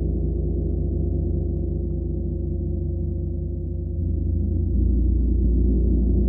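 A gong humming in a dense, sustained wash of overlapping low tones with a steady pulsing beat, without distinct strikes. It swells louder about four seconds in and again a little later.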